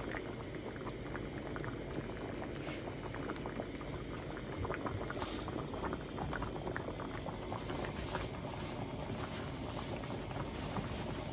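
Liquid bubbling steadily, with many small pops and ticks.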